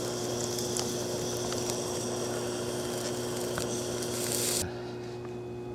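Steady low electrical hum, typical of a nearby transformer, under a rustling hiss with faint ticks. The hiss cuts off suddenly near the end, leaving the hum.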